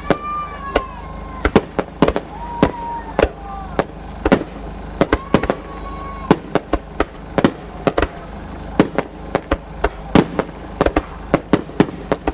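Aerial fireworks bursting in a rapid, irregular barrage of sharp bangs and pops, several a second, with a few brief high held tones among them.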